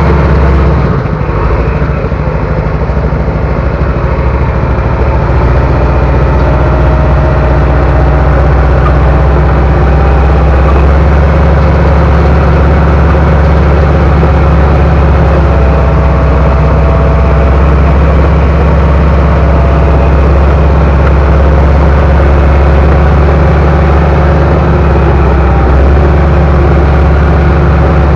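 Bulldozer's diesel engine running, a loud, steady low drone that dips slightly about a second in.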